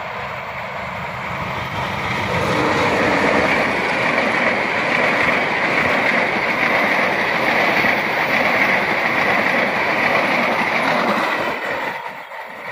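Diesel-hauled passenger train passing close by. Engine and wheel-on-rail rumble grow loud about two seconds in, hold steady while the coaches roll past, then drop off near the end as the last coach goes by.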